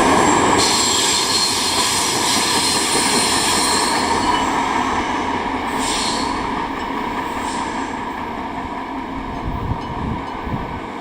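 Train rolling past on the mountain line, its wheels squealing on the rails during the first few seconds, then the running noise slowly fading.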